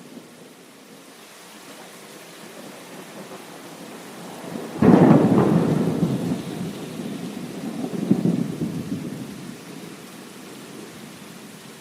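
Steady rain with a sudden thunderclap about five seconds in, rumbling on with a second swell before fading back into the rain.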